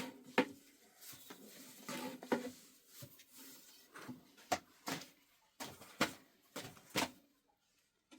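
Irregular knocks and clatters from objects being handled, with light rustling between them; several sharp knocks come between about four and seven seconds in.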